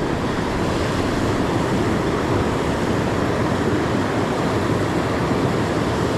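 Mountain creek running high: a steady, unbroken rush of flowing water.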